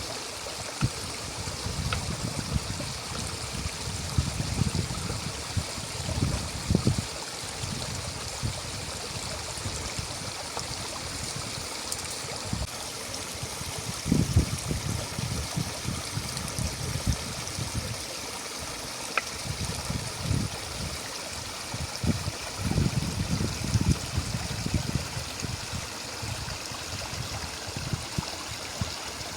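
Stream flowing steadily, an even rush and trickle of water, with irregular low rumbling bursts now and then.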